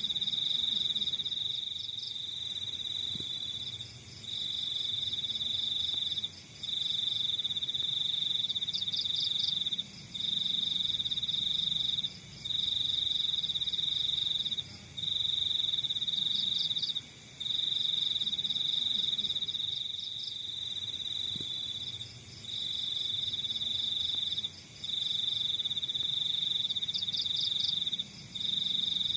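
Crickets trilling in long bursts of about two seconds each, broken by short pauses, over a fainter, higher, rapidly pulsing chirp; a faint low rumble underneath.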